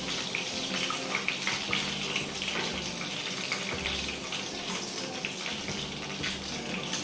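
Chicken wings sizzling in hot oil in a frying pan: a steady sizzle with frequent small crackles.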